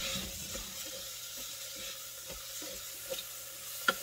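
Jasmine rice and garlic sizzling in olive oil in an Instant Pot on sauté as it is stirred, the rice browning, with a few light scrapes and a sharp click near the end.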